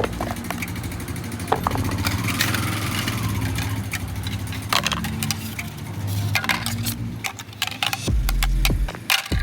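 A small motor running steadily, with scattered sharp clicks and taps throughout.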